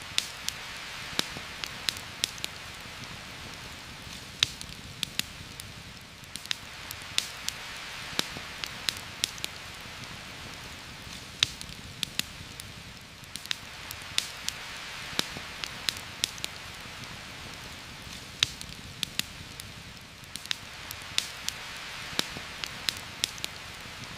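Steady rain hiss that swells and eases every few seconds, with frequent sharp, irregular pops and snaps of a crackling campfire.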